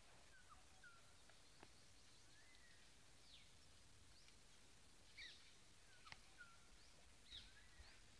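Faint jungle ambience: scattered short bird chirps and whistles, some sliding up and some sliding down, over a quiet background hiss, with a couple of soft clicks.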